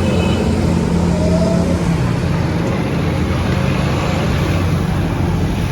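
Road vehicle engine running steadily, a continuous low hum.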